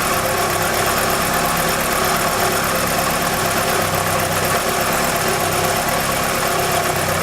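Car engine idling steadily with its oil filler cap off, while plain water is poured into the oil filler neck. A fast, even ticking runs over the idle.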